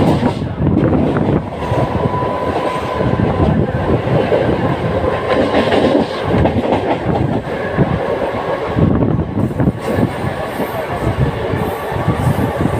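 Mumbai suburban electric local train running at speed, heard from inside a non-AC coach: a loud, steady rumble with the clatter of wheels over rail joints, and a faint thin whine between about one and five seconds in.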